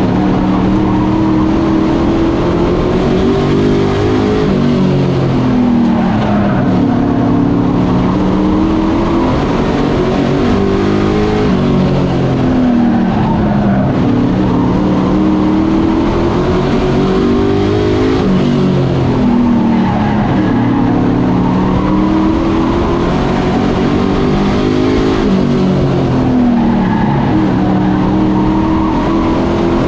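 Race trucks' engines running hard on a short oval. The engine note climbs as the trucks accelerate and drops as they lift, repeating every six or seven seconds.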